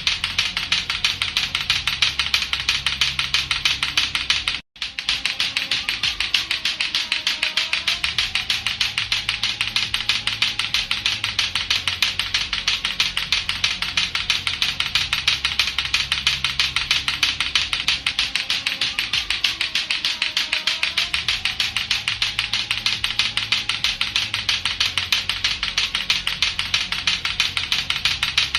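Latto-latto clacker balls, two hard plastic balls on a string knocking together in a fast, steady, unbroken run of clacks. The clacking cuts out for a split second about five seconds in, then carries on.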